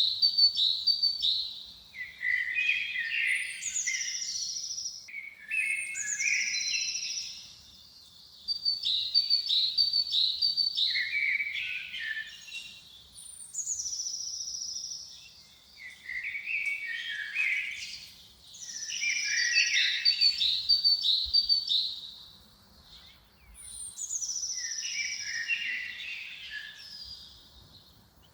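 A songbird singing the same song phrase over and over, about every five seconds: each phrase starts with a high whistle that falls in pitch and runs into a lower, warbling trill.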